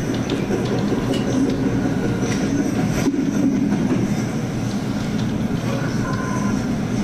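Steady low rumbling noise with scattered light clicks, picked up by a police body camera's microphone.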